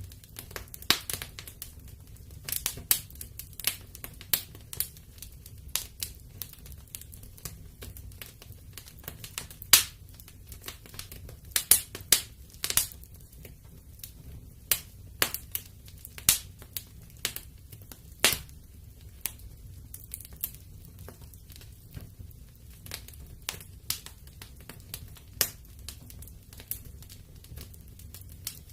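Fire crackling in a fireplace: irregular snaps and sharp pops, a few much louder ones about ten and twelve seconds in, over a low steady rumble of the flames.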